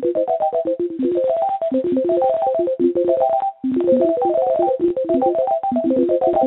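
Rapid run of short electronic synthesizer blips and blops hopping between a few pitches, several notes a second, heard over a phone line. The notes drop out briefly about three and a half seconds in.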